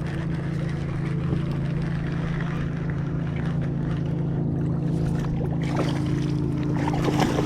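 A steady, even low hum like a running boat motor, under wind and water noise, with a few light knocks near the end.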